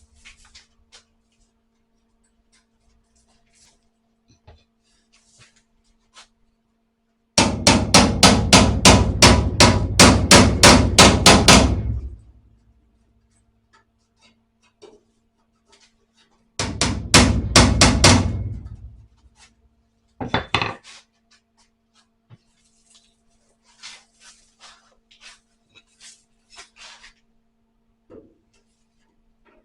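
Hammer striking a sheet-steel repair panel to bend it into place: a fast run of about twenty blows, a second shorter run a few seconds later, then a few lighter taps.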